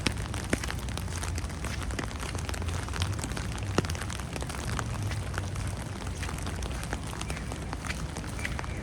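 Wet falling snow pattering with many irregular small ticks and crackles over a low steady rumble.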